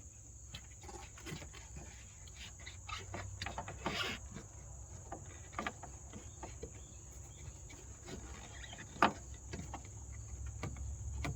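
Crickets chirping steadily in a high, even band, with scattered light clicks and knocks as the rubber dust boot is pressed back onto the headlight housing; one sharper knock about nine seconds in.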